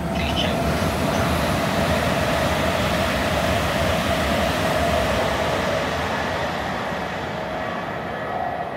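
A train running past on the main line: a steady rolling rumble with a held tone in it, easing off over the last few seconds.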